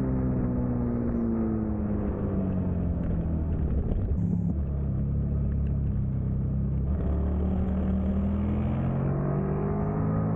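Onboard sound of a 2003 Suzuki SV650's V-twin engine racing, with wind rush. The revs fall over the first few seconds as the bike slows for a corner, then climb again over the last few seconds as it drives out hard.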